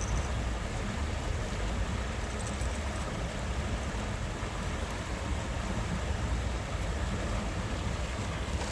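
Steady rushing outdoor noise with a deep, even rumble and no distinct events.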